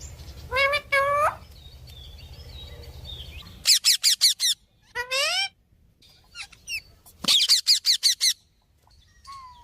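Parrots calling: two drawn-out rising calls about half a second in, then quick runs of short, sharp rising calls, one about four seconds in and another around seven seconds in.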